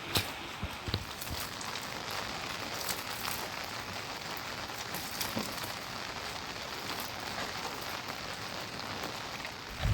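Steady rain falling, an even hiss with scattered sharp drops ticking.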